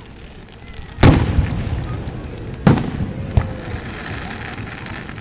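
Aerial firework shells bursting: a loud boom about a second in followed by a quick run of crackles, a second boom near the middle and a smaller bang soon after, then a lingering crackle.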